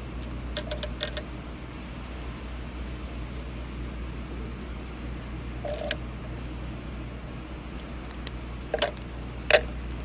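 Light clicks and taps as the freezer fan motor's wire terminals and plastic parts are handled: a few close together about a second in, one midway and two near the end, the last the loudest. A steady low hum runs underneath.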